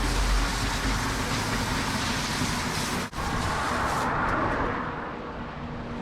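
Road traffic going past, a steady rush of tyres and engines that thins out and eases off in the second half.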